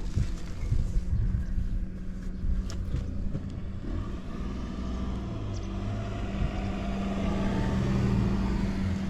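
Honda Motra's small four-stroke single-cylinder engine idling steadily after a cold start, its pitch creeping up a little in the second half, with a few light knocks in the first few seconds. It runs quietly with no abnormal noise.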